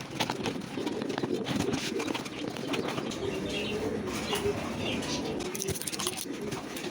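Domestic pigeons cooing continuously, with scattered clicks and light flutters over them.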